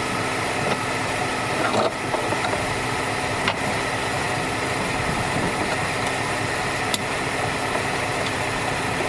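Car engine idling steadily, with three short sharp metallic clicks.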